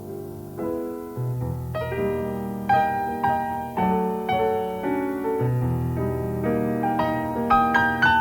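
Jazz keyboard playing slow, sustained chords that rise higher through the passage, over low bass notes that enter about a second in and again just past the middle; no drums are heard.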